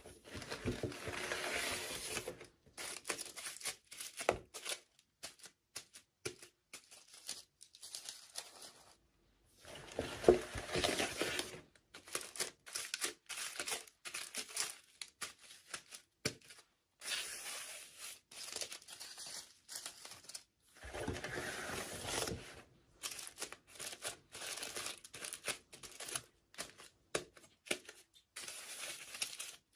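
Toy packaging being torn open and crinkled by hand: three longer tearing, rustling bursts, with many short crinkles and clicks in between.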